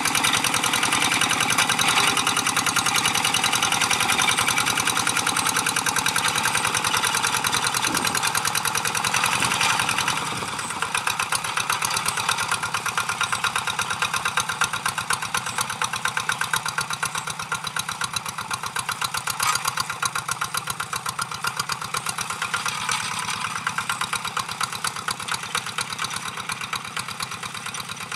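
Engine of a G1000 two-wheel hand tractor running with a rapid, steady firing beat. It drops in level about ten seconds in and then fades slowly.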